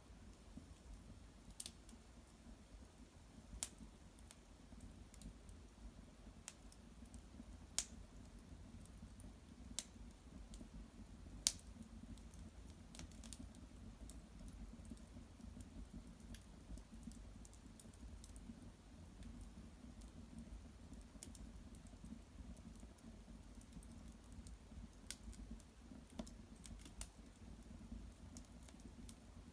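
Small wood fire crackling quietly, with sparse, irregular sharp pops over a faint low hum.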